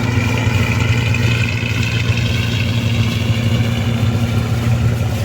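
A river boat's engine running steadily, with a low, even drone.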